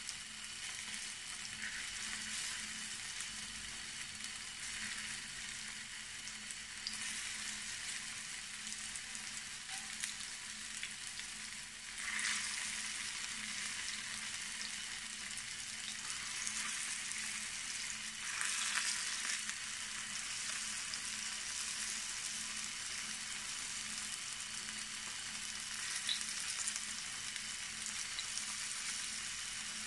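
Cornstarch-coated firm tofu cubes sizzling steadily in hot oil in a frying pan as they are turned with wooden chopsticks. The sizzle swells twice, about a third and about two thirds of the way through.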